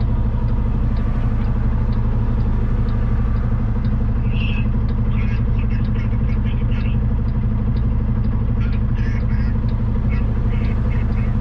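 Semi truck's diesel engine idling steadily after the truck has come to a full stop, with faint voices over it.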